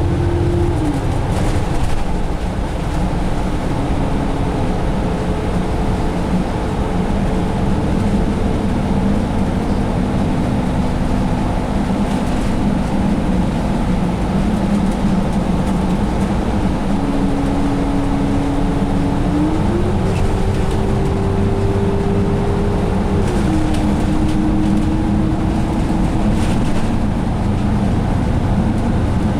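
Interior sound of a 2017 Alexander Dennis Enviro500 double-decker bus cruising on the freeway: a Cummins ISL diesel and Allison automatic drivetrain drone under steady road rumble. A whine runs over the drone and steps up and down in pitch a few times, upward about two-thirds of the way through and back down shortly after.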